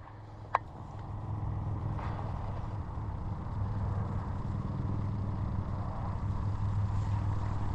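Steady low mechanical hum, like a running engine, growing slowly louder, with one sharp click about half a second in.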